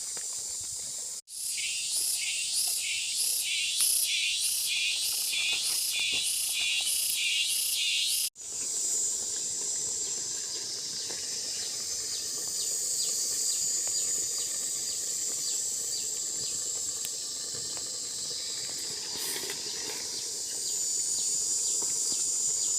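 High-pitched insect calls pulsing about twice a second. After a sudden cut they give way to a steady high insect hiss with scattered small ticks.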